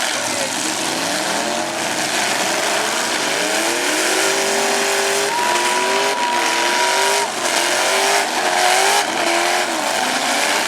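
Several demolition-derby trucks' engines revving hard, rising and falling over one another, with tyre and track noise. About halfway a high steady whine is held for about two seconds. A few knocks from trucks hitting can be heard in the second half.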